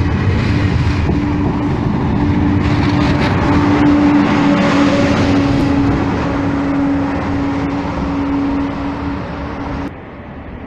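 TGV Atlantique high-speed trainset pulling away, its running noise carrying a steady hum that swells to a peak about four seconds in and then fades as the train recedes. Near the end the sound cuts off suddenly to much quieter background.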